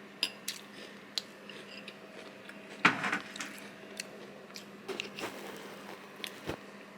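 A person eating cereal: crunchy chewing with scattered small clicks, the loudest crunch about three seconds in.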